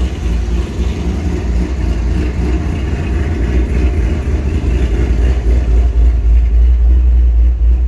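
2006 Corvette's LS2 V8, fitted with an aggressive cam, headers and a Corsa exhaust, idling with a steady deep exhaust rumble that grows a little louder in the second half.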